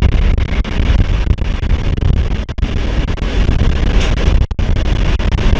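Wind buffeting the microphone over the rumble of a moving train. The sound cuts out for an instant twice.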